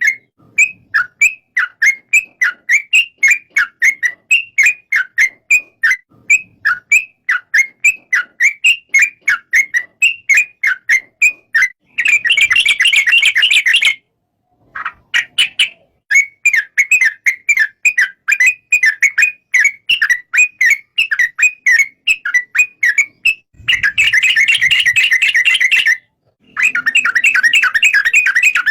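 Yellow-vented bulbul (trucukan) calling: a long run of short, sharp chirps at about three a second. Twice in the second half they thicken into dense, rapid chatter, broken by brief dead gaps.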